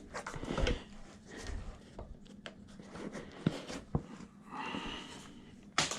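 Hands and tire levers working a stiff back tire off an e-bike rim: scattered clicks and knocks of metal and rubber, with a short higher-pitched sound about four and a half seconds in.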